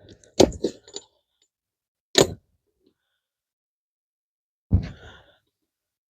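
Tractor tire chain being handled: a few short metallic clanks and knocks, a cluster in the first second, a sharp one about two seconds in and another near five seconds.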